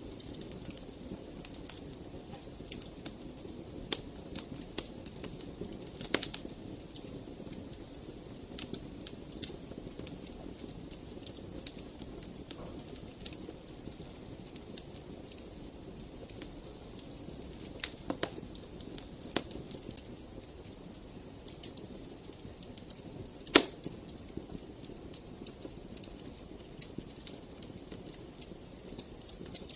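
Wood fire burning in a fireplace: a low steady rush of flame with frequent sharp crackles and pops. The loudest pop comes about three-quarters of the way through.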